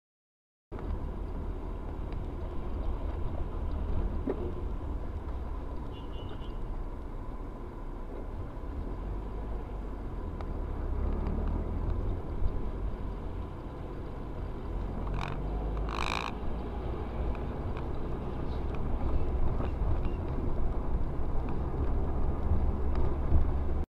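Car driving, heard from a dashcam inside the vehicle: a low steady road and engine rumble, with a short sharp noise about two-thirds of the way through.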